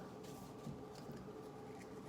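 Faint room tone with a steady low electrical hum and a few soft handling clicks.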